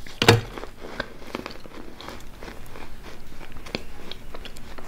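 Biting and chewing a frozen block of homemade edible chalk made of cornstarch and powdered sugar, close to the microphone: a squeaky crunching, 'ppodeuk ppodeuk'. One loud first bite comes about a third of a second in, followed by many small crunches.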